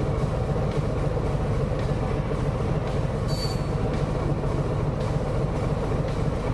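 Harley-Davidson Sport Glide cruising at highway speed: a loud, steady rush of wind over a low engine drone.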